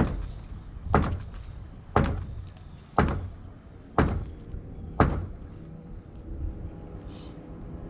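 Heavy hammer blows, about one a second, six in a row, stopping about five seconds in.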